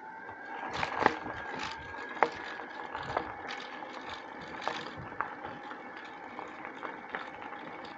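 A bicycle rolling over a bumpy track, its frame and parts rattling with irregular sharp knocks, over a steady high whine.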